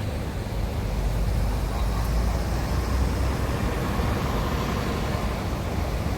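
Steady low rumble of road traffic and vehicle engines, with no distinct event standing out.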